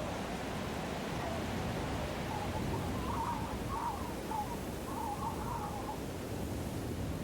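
Steady storm wind blowing, a dense rushing noise heaviest in the low end. In the middle, a few faint wavering bird calls are heard over the wind.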